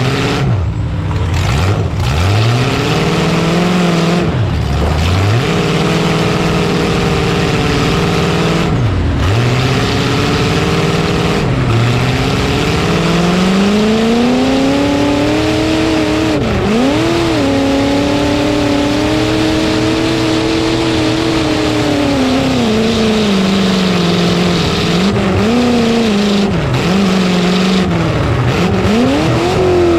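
Demolition derby truck's engine revving hard, its pitch rising and falling again and again with quick drops and swoops as the throttle is let off and stabbed, over a dense noisy background.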